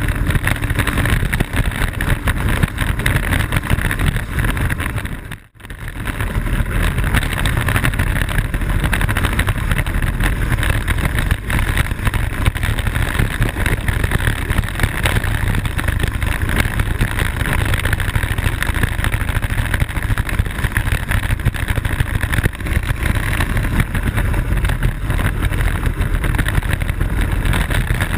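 Wind rushing over the kart-mounted microphone and the rumble of a Blokart land yacht's wheels rolling on airfield pavement at speed. The sound cuts out for a moment about five seconds in.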